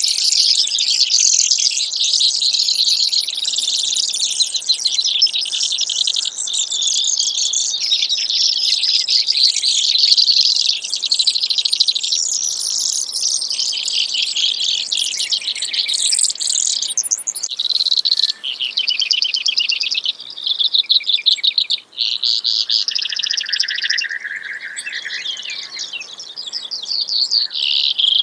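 Brewer's sparrow singing: a long run of fast, rapid trills that change pitch from one trill to the next. About two-thirds of the way through, the song breaks into separate trilled phrases, one of them lower.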